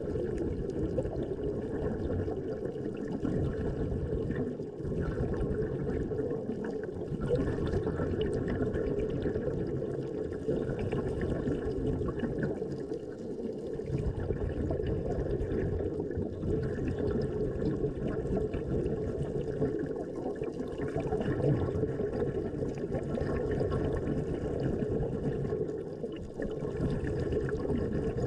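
Steady, muffled rushing and sloshing of water, dull with little treble, rising and falling slightly in loudness.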